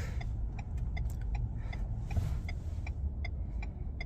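Pickup truck turn signal ticking steadily, about two to three ticks a second, heard inside the cab over the low rumble of the engine and road.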